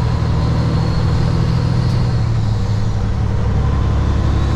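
2006 Kenworth W900 semi truck's diesel engine running steadily while driving, a low even drone with road noise over it.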